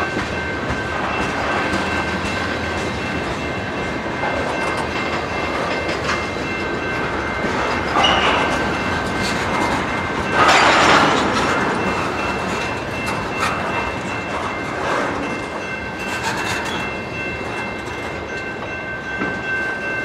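Freight train of loaded tank cars rolling past at close range: a steady rumble and clatter of wheels on rail, with a steady high ringing tone over it. Louder rushing surges come about eight and about ten and a half seconds in.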